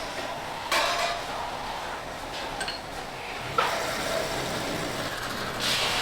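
Vintage metal lathe turning aluminium: a cutting tool scraping against the spinning workpiece with a steady hiss that surges in passes, and a sharp click about three and a half seconds in.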